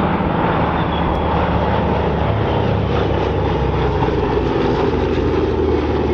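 Piston engines of Second World War propeller warbirds running with a steady, even drone.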